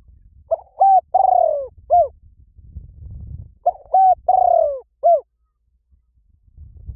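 A bird call: a loud phrase of four notes, two short, one longer falling note, then a short one, heard twice about three seconds apart.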